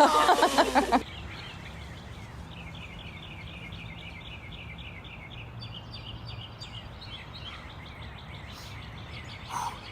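A loud voice-like shout in the first second, then a bird calling in a long run of short, quick chirps, about four a second, over a steady outdoor hiss.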